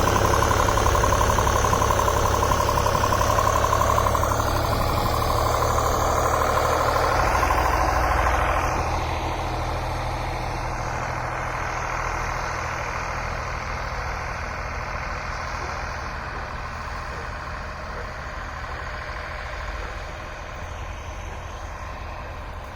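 Diesel engine of a Waldon 5000 articulating wheel loader, a German Deutz, running steadily as the machine works in high gear; the engine sound grows gradually quieter after about eight seconds.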